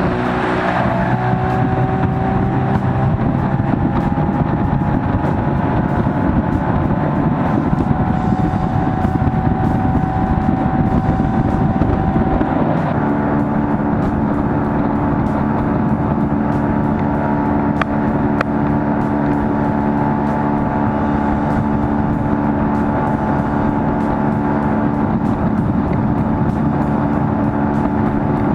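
Boat's outboard motor running at a steady speed under way. The engine note rises slightly in the first second, then changes abruptly about thirteen seconds in and holds steady again.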